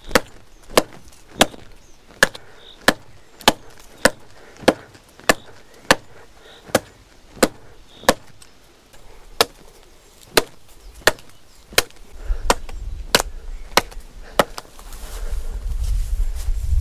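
A handmade axe with a railway leaf-spring steel blade chopping into a standing tree trunk, a steady run of sharp blows a bit under two a second. The blows stop about two seconds before the end, giving way to a low rumbling rustle.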